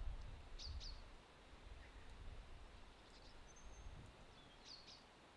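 Quiet outdoor countryside ambience: a small bird gives a few short high chirps, in pairs about a second in, near the middle and near the end, over a low rumble.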